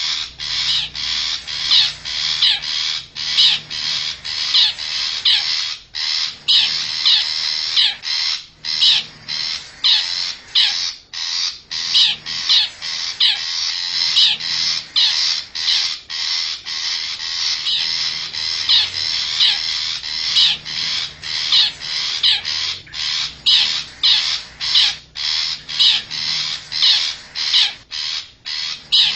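Long-tailed shrike (cendet) calling, a fast, unbroken run of short, repeated calls at roughly two a second with a few brief gaps. This is a lure recording meant to draw wild shrikes in close.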